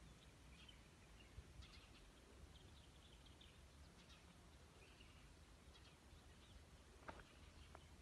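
Faint, scattered bird chirps over a quiet outdoor hush with a low rumble, and a couple of short clicks about seven seconds in.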